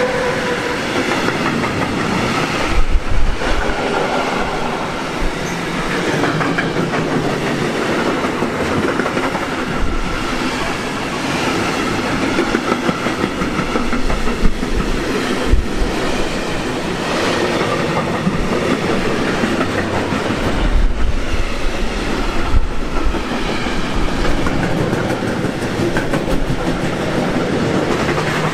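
A long train passing close by, its wheels clattering on the rails in a continuous run, with scattered louder knocks.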